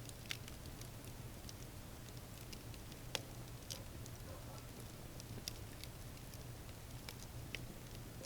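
Wood campfire crackling: irregular sharp snaps and pops of burning wood, the loudest a little after three seconds in, over a faint steady low hum.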